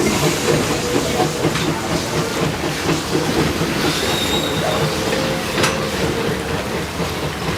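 Train hauled by the Calumet & Hecla 0-6-4T steam tank locomotive "Torch Lake" rolling by, cars rattling and wheels clicking over rail joints. A brief thin wheel squeal comes about four seconds in.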